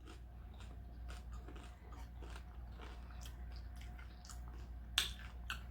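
A person chewing a taco close to the microphone: a run of small crunches and wet mouth clicks, with one sharper crunch about five seconds in.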